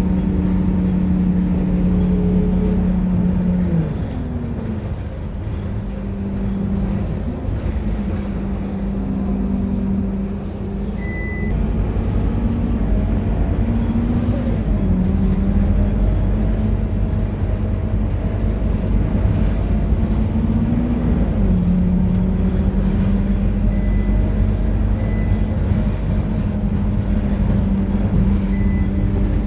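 Scania K230UB city bus running, a steady engine drone whose pitch drops about four seconds in as it eases off, then rises and falls as it picks up speed again through the gears. Short electronic beeps sound a few times.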